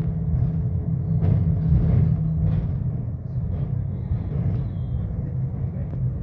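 Scania K270UB bus's nine-litre five-cylinder diesel engine running, a steady low drone.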